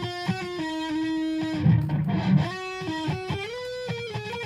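Electric guitar in Drop C# tuning playing a single-note lead lick, stepping between notes on the B and G strings around the 7th to 10th frets. One note is held about a second in, and a brief low chug comes near the middle.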